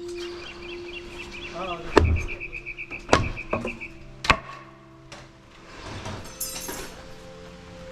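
Three sharp knocks about a second apart, hammer-like blows on wood during demolition of a deck.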